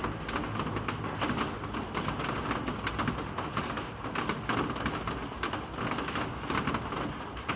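Steady rain falling, with many irregular drops tapping on a hard surface.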